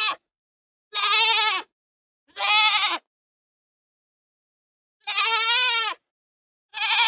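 Goat bleating: a series of short, wavering calls, four of them with short silences between, plus the tail of one at the very start.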